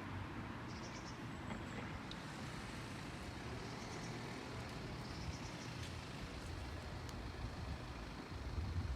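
Steady low background rumble, with a small bird's faint, high, short chirps a few times, around one second in and again around five to six seconds in.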